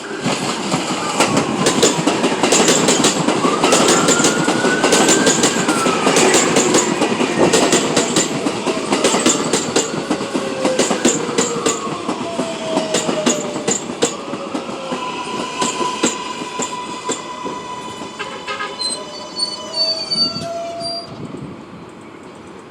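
R142A subway train pulling into a station and slowing to a stop. The wheels click rapidly over rail joints and squeal, and the propulsion whine glides in pitch. The sound is loudest early on and grows quieter as the train slows, with a set of high tones stepping down in pitch shortly before it stops.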